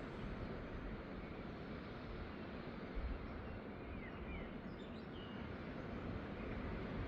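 Seaside outdoor ambience: a steady rush of surf and wind, with a low thump about three seconds in and a few faint bird chirps near the middle.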